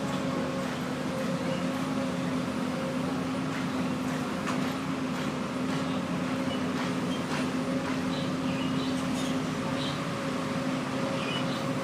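Diesel engine running steadily at a constant speed, a low, even hum with scattered faint clicks and knocks.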